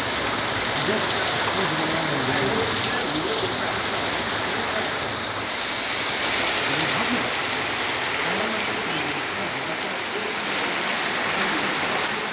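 Heavy rain pouring down and pattering on surfaces, a steady hiss.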